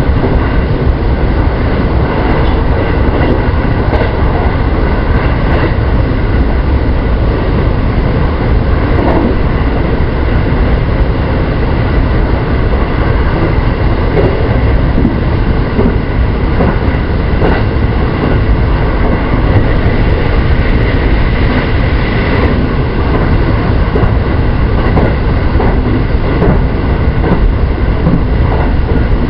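JR West 223 series 2000 electric multiple unit running steadily at speed, heard from inside the car: a continuous rumble of wheels on rail with scattered faint clicks.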